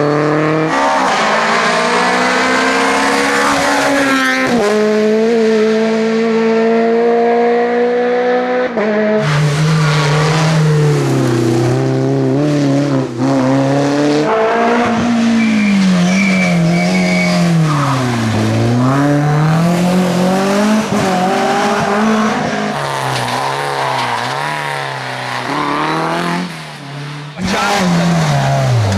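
Rally cars driven hard on a stage, several in turn in short cuts. Each engine note climbs with the throttle and drops as the driver lifts and changes gear, with one long fall and rise in pitch about two-thirds of the way through.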